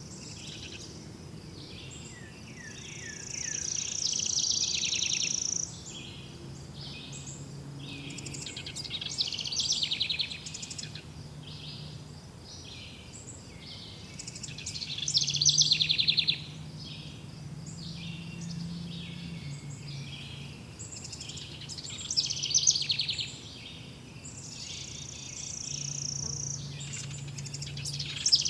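Birds singing and calling in a forest, in repeated bouts of chirps and trills, with louder bursts every few seconds, over a faint steady low hum.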